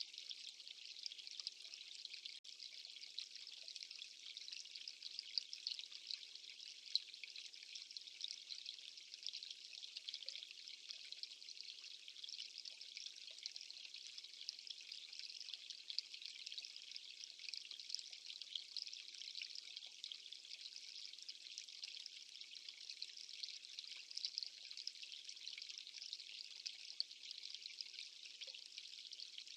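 Steady rushing and trickling of running water, a fine crackling hiss that holds unchanged throughout.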